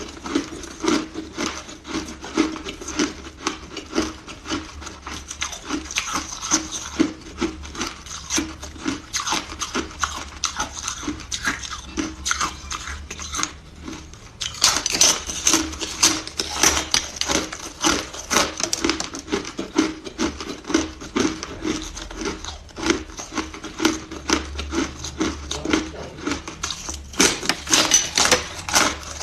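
Hard ice being bitten and crunched close to the microphone: a dense run of sharp cracking crunches, with a short pause about halfway and louder crunching after it.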